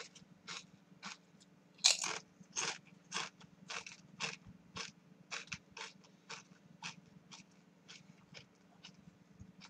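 A person chewing hard-fried (kata-age) potato chips close to the microphone: crisp crunches about two a second, the loudest about two seconds in, growing fainter toward the end.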